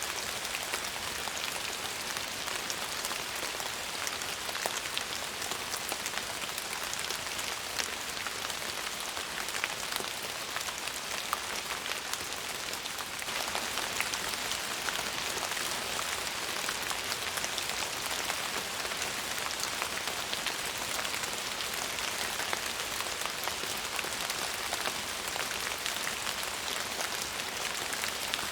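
Steady rain falling, a dense hiss of many small drops pattering on a surface. The level steps up slightly about halfway through.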